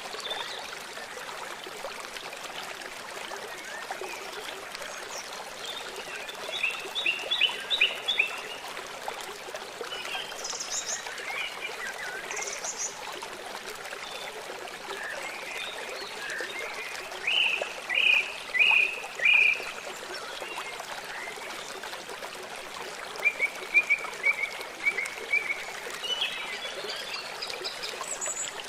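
Steady flow of a river or stream, with a bird calling over it in three runs of short, quickly repeated high notes and a few fainter high chirps in between.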